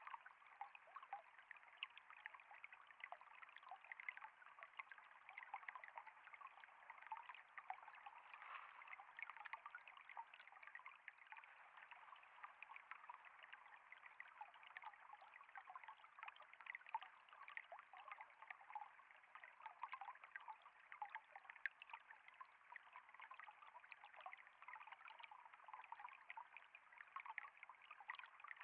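Water trickling and flowing steadily, quiet, with a dense patter of small splashes throughout.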